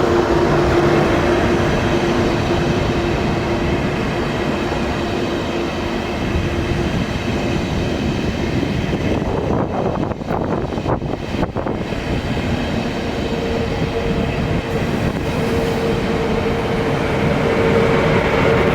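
A train running at a station, with a continuous rumble and a steady hum. The hum fades out before the middle, the sound dips briefly around the middle, and a higher-pitched hum takes over for the last third.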